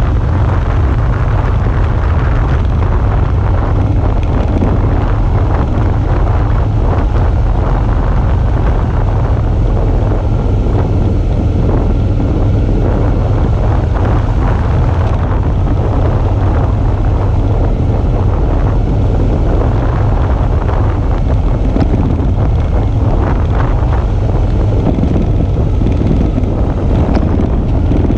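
Steady wind buffeting on the microphone of a motorcycle in motion, with the Suzuki V-Strom 650's V-twin engine running underneath.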